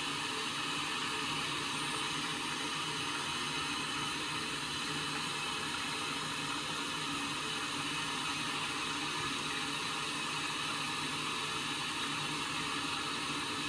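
Indesit washing machine filling with water during a static fill. The water runs into the drum with a steady hiss.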